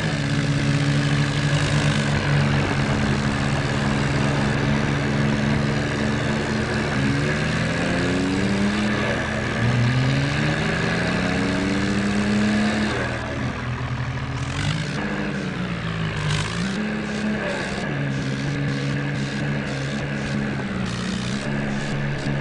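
Modified John Deere tractor's diesel engine running hard under load. Its pitch climbs steadily as it revs up between about 7 and 13 seconds in, sags briefly and recovers around 16 seconds, then holds steady.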